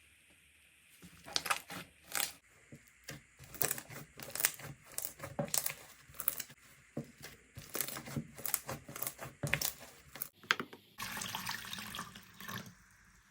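Hands squeezing and stretching slime: irregular sticky pops and clicks start about a second in, giving way to a denser, steadier crackle shortly before the end.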